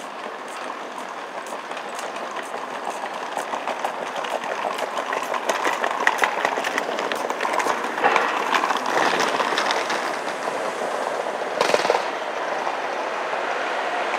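Locomotive-hauled train approaching slowly into the station, its wheels clicking over the rail joints and growing steadily louder, with a brief louder rush near the end.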